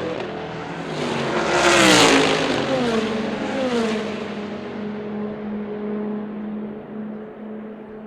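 A GT race car passes at speed, loudest about two seconds in, with its engine note dropping as it goes by. It then shifts up twice and fades into the distance with a steady engine tone.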